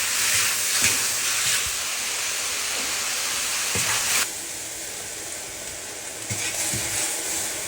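Bean sprouts and glass noodles sizzling in a hot wok as they stir-fry, a steady hiss with a few soft knocks. The sizzle drops off abruptly about four seconds in, then carries on quieter.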